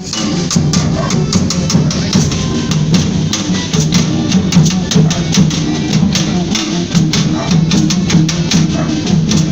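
A Brazilian folia band playing, with drums and dense, rapid percussion strokes over a low pitched melody.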